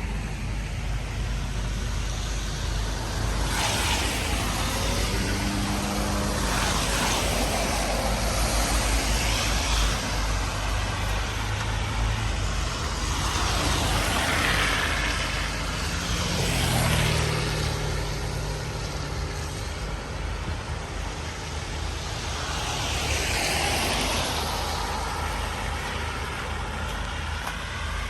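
Road traffic passing one vehicle after another: about five passes swell and fade in tyre and engine noise, two of them with the low hum of a heavier vehicle's engine.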